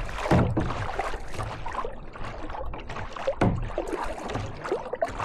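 Kayak being paddled on a lake: paddle blades dipping and splashing in the water, with two stronger strokes about three seconds apart.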